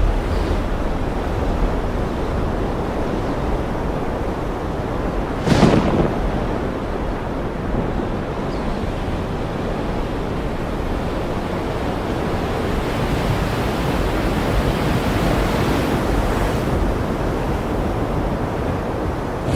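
Ocean surf rushing steadily over a deep low rumble, with one sudden sharp crash about five and a half seconds in.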